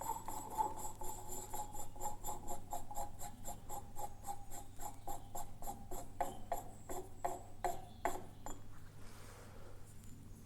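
Rapid, regular scraping strokes of a hand tool on metal, about five a second, with the workpiece ringing under them. The strokes stop about eight and a half seconds in.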